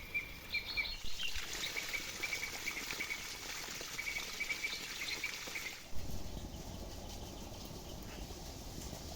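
Small birds chirping and twittering in quick runs over outdoor background noise. About six seconds in the chirping stops abruptly and a low steady noise takes over.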